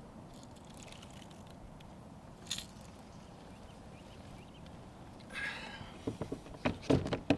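Steady low wind and water noise, with a single click a little after two seconds and a cluster of knocks and scrapes in the last two seconds.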